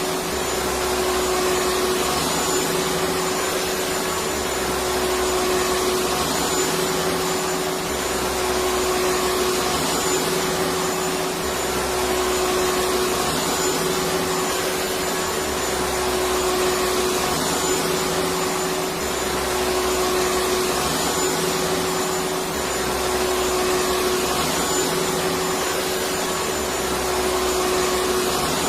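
Electric vacuum cleaner running steadily: a motor whine with a rushing hiss of air. A low hum swells and fades every couple of seconds.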